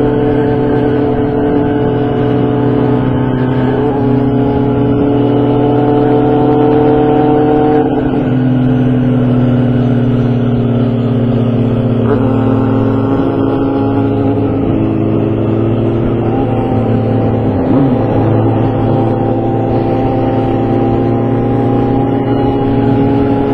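Motorcycle engine running steadily while riding, its pitch creeping up for several seconds, dropping about eight seconds in, then slowly rising again.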